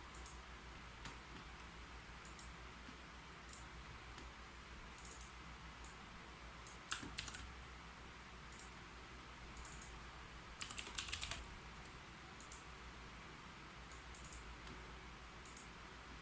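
Keyboard typing: scattered single keystrokes, with a short quick run of keys about eleven seconds in.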